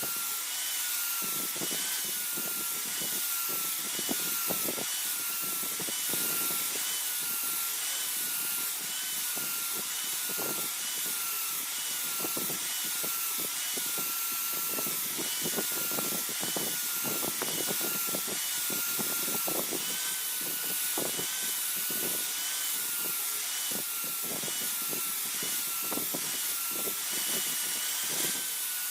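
Electric grinder running with a steady high whine that dips slightly under load, its wheel scraping in irregular strokes against a steel blade made from a car leaf spring.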